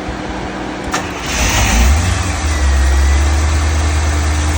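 A warm 1984 car engine starts: a click about a second in, then a short crank and catch that rises into a loud, steady idle. It is being restarted with its electronic spark control plugged back in, after the base timing was set.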